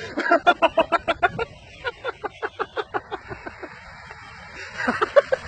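A person laughing hard in quick repeated ha-ha pulses, in three bouts: a long one at the start, a second that fades out, and a short one near the end.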